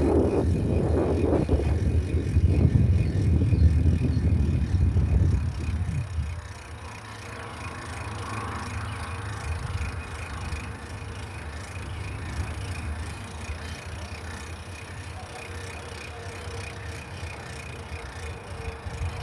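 Bicycle being ridden, with a heavy low rumble of wind on the microphone and road noise for about six seconds, then dropping to a much quieter, even background with a faint steady hum.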